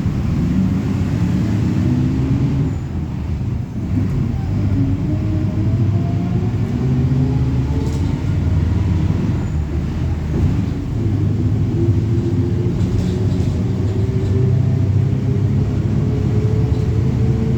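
Diesel engine of a Mercedes-Benz OF-1721 city bus pulling under load, its pitch rising slowly as the bus accelerates, with a short drop in level a little under four seconds in, as at a gear change. Heard from inside the cabin.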